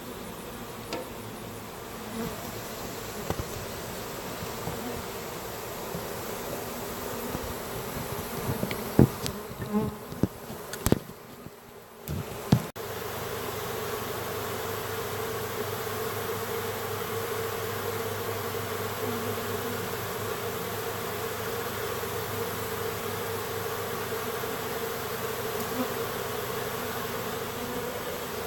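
Honeybee swarm buzzing in a steady hum. A few sharp knocks and clunks come partway through, after which the buzzing is louder and even.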